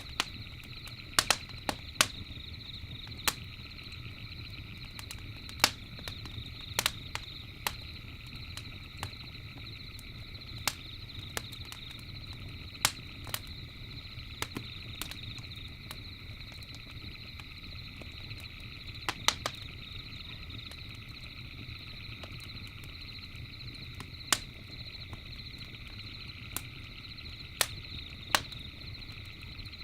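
Campfire burning, with irregular sharp crackles and pops from the wood, sometimes several in quick succession, over a low steady rumble. A steady high chirring runs behind it.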